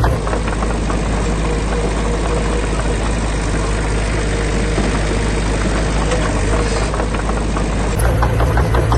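Heavy construction machine's diesel engine running steadily. The low hum grows stronger briefly near the end.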